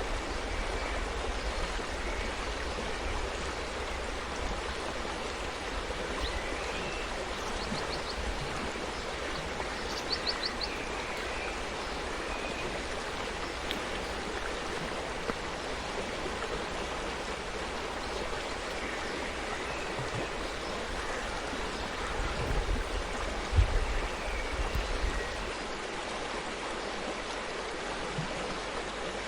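Forest stream flowing steadily, a continuous rush and babble of water. A few short, high chirps come about a third of the way in, and a brief low rumble, the loudest moment, comes about three quarters of the way through.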